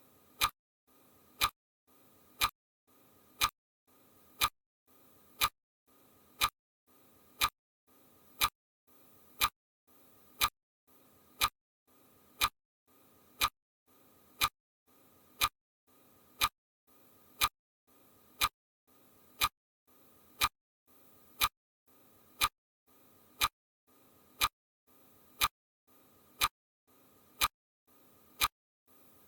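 Steady ticking: one sharp tick about every second, evenly spaced, with a faint low hum between the ticks.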